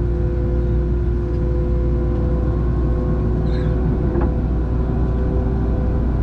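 Boeing 737-700's CFM56-7B engines heard from inside the cabin: a steady low rumble with a constant whine over it, at an even power setting.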